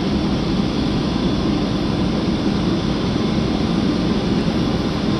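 Jet engines of a Boeing 757-300 at takeoff thrust, a steady, loud, low rumble.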